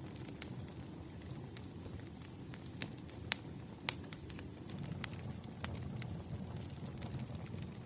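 Burning firewood crackling: irregular sharp pops and snaps over a low steady rustle of the flames, the loudest pops coming around three and four seconds in.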